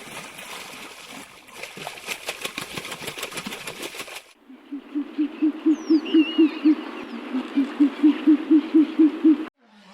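An animal call: two runs of rapid, evenly spaced low hoots, about four a second, with a short break between them, after a few seconds of rough noise. Faint high bird whistles sound behind the hoots.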